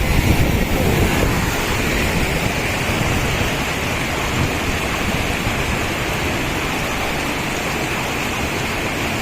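Hadapan Ella waterfall rushing in a steady, heavy roar of falling water, running higher than usual. Low wind buffeting on the microphone in the first second or so.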